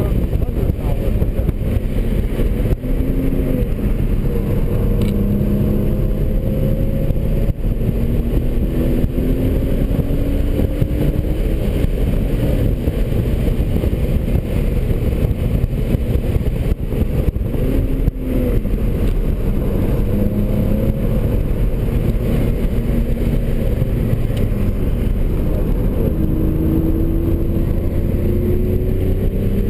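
2003 BMW 330i's 3.0-litre straight-six engine heard from inside the cabin, pulling hard at speed on track: its pitch climbs again and again, broken by a few short dips.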